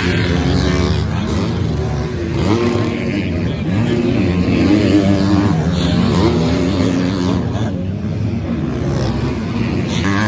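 Several 250cc four-stroke single-cylinder motocross bikes racing around the track, their engines revving up and down through the gears, with more than one bike heard at once.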